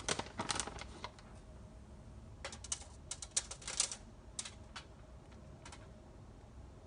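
Quick, light clicks and taps in a few clusters, near the start and again around three to four seconds in, from hands handling food and utensils at the counter as cheese is added to the cheesesteak rolls.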